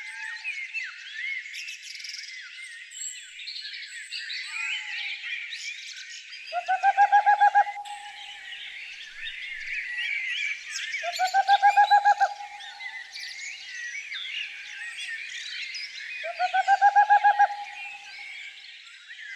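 Dense chorus of many wild birds chirping and twittering together. Three times, about five seconds apart, a louder, lower trill of rapid repeated notes lasting about a second cuts through.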